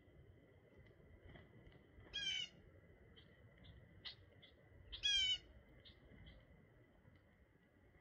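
Birds calling: two loud, harsh calls about three seconds apart, with soft short chips in between.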